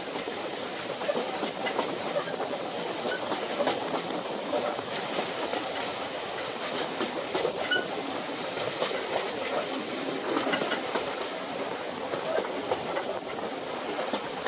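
Heritage passenger train running along the track, heard from a carriage window: a steady rolling clatter of wheels on rails, with frequent sharp clicks over joints throughout.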